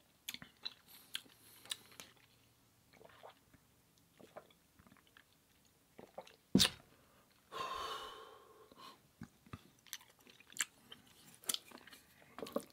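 Close-miked eating sounds: wet chewing and crisp crunchy bites in short irregular clicks. There is one loud sharp crunch about six and a half seconds in, followed by a longer noisy mouth sound lasting about a second.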